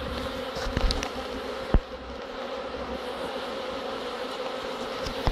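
Honeybees from an opened hive buzzing in a steady drone. A few sharp knocks sound about a second in and again near two seconds.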